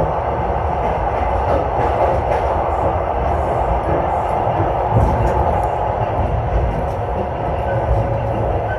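Passenger train carriage running at speed, heard from inside: a steady rumble of wheels on rails, with a few faint knocks from the running gear.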